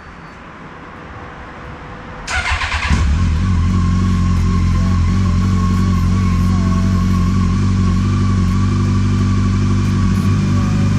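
Yamaha FJR1300's inline-four engine being started: the starter cranks briefly a little over two seconds in, the engine catches, and it settles into a steady idle.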